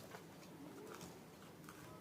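Faint eating sounds over near silence: a few soft mouth clicks from chewing.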